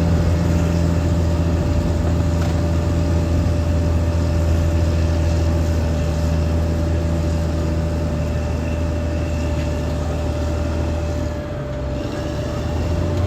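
Caterpillar D6R XL bulldozer's diesel engine running steadily at working revs, with a steady whine over the engine note. The engine note dips briefly near the end.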